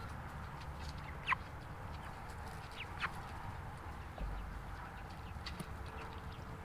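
Chickens calling: three short, high chirps that fall in pitch, over a steady low background, with a dull thump about four seconds in.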